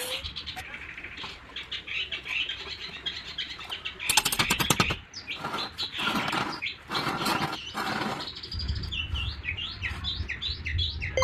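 Birds chirping in short, quick calls, with a rapid rattling burst about four seconds in.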